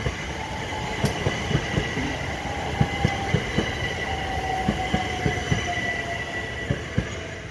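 Southeastern Class 375 electric multiple-unit train running away along the line. Its wheels knock over the rail joints in an uneven run of clicks, under a steady high whine and a lower whine that slowly falls in pitch. The sound fades about seven seconds in as the train moves off.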